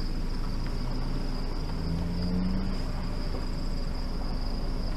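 Steady high-pitched chirring of insects, crickets or katydids, over a low even rumble.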